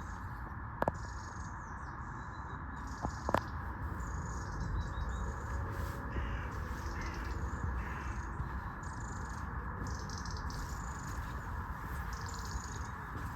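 Birds calling in woodland: three harsh caws about halfway through and repeated high twittering from smaller birds, over a steady hiss. Two sharp clicks sound in the first few seconds.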